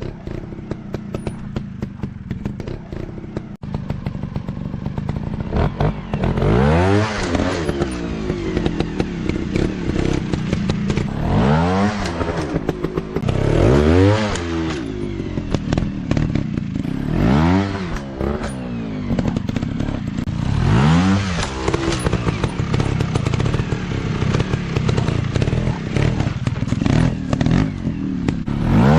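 Off-road dirt bike engines running, with repeated rev bursts every few seconds whose pitch climbs sharply and drops back. Dense clattering and knocks run throughout.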